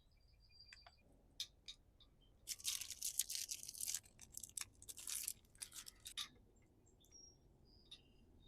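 Crinkly rustling and scraping of parts being handled during an outboard fuel filter change, a dense run of sharp crackles lasting about four seconds before it goes quiet again.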